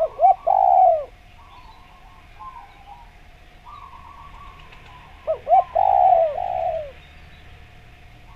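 Spotted dove (derkuku) cooing in two phrases: right at the start, two quick short coos and a longer one, then about five seconds in, two quick coos followed by two longer ones. Faint chirping of small birds fills the gaps between phrases.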